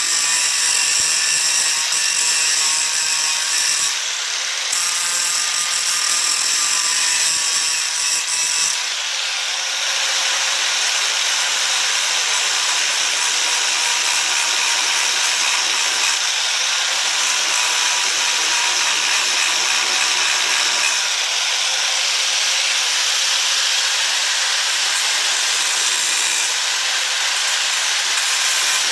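Power grinder running steadily, grinding down the pin heads on baler roller-chain links so the links can be separated to trim the chain to length. About nine seconds in the sound turns from a whine into a denser, hissier grind.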